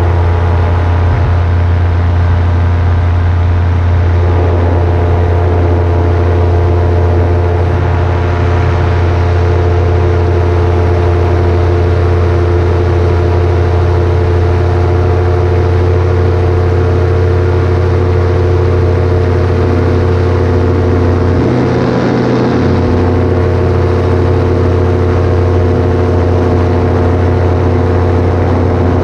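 Paramotor engine and propeller running steadily at a constant throttle in flight, a loud, even drone with a low hum, with a brief wobble in the low tone about three-quarters of the way through.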